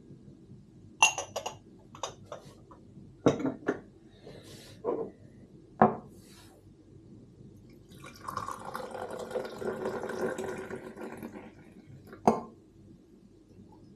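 Crockery and glass clinking in a string of short knocks, then coffee being poured into a cup for about three and a half seconds, and one more clink near the end.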